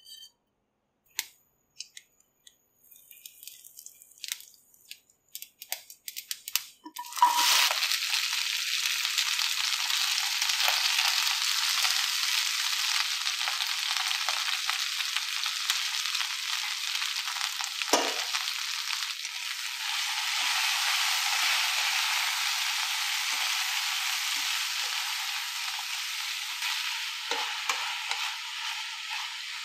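Mustard seeds crackling and popping in hot oil, scattered clicks for several seconds. About seven seconds in, a loud steady sizzle sets in as sliced ivy gourd (kovakkai) fries in the oil, with stirring and a single knock about halfway through.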